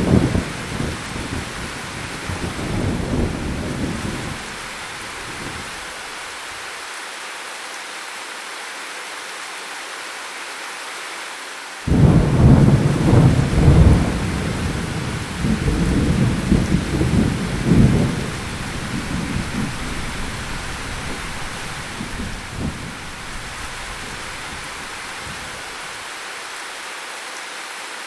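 Thunderstorm: steady rain with thunder. A rumble dies away over the first few seconds, then a sudden loud thunderclap about twelve seconds in rolls on in swells for several seconds before fading back to the rain.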